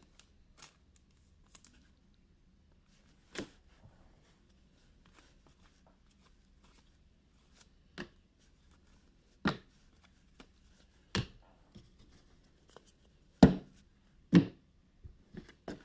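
Trading cards being handled and flicked through by hand: scattered sharp taps and snaps at irregular intervals, the loudest a few seconds before the end.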